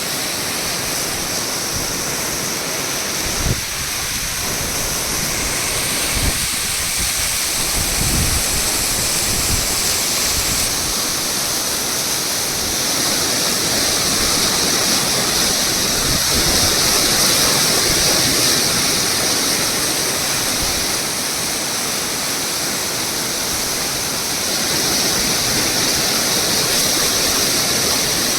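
Roadside waterfall rushing steadily: a loud, even hiss of falling water, with a few low thumps on the microphone in the first eight seconds or so.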